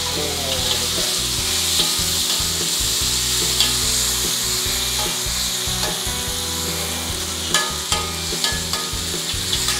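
Chopped tomatoes sizzling in hot oil on a tawa griddle, stirred with a metal spoon that scrapes and clicks against the pan a few times, mostly near the end.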